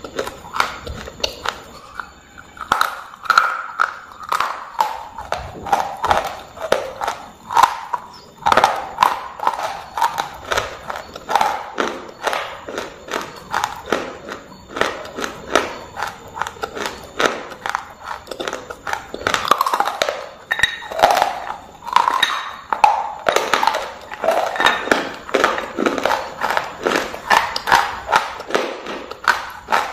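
Pieces of shale being bitten and chewed close to the microphone: crisp dry crunches, about two or three a second, throughout.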